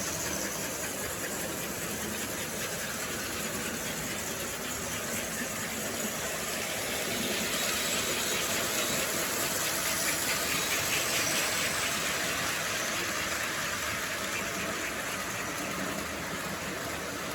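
Model train running on its track: a steady mechanical whir with a fast clatter. It grows louder about seven seconds in and eases off again after about twelve seconds.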